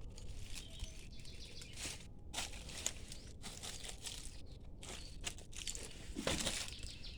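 Irregular crunching and crinkling, a run of short crackles with a louder cluster about six seconds in.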